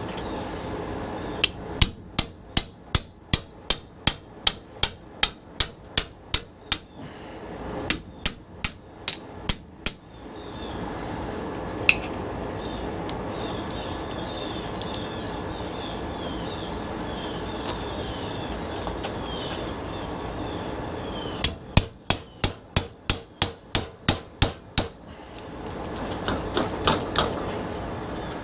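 Hammer blows on metal while knocking apart a ceiling fan's motor for its copper, in three runs of quick, regular strikes about three a second, with a steady background noise between the runs.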